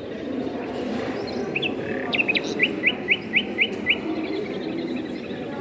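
A small songbird singing: a few quick chirps, then a run of six evenly spaced short rising notes at about four a second, over a steady low background murmur.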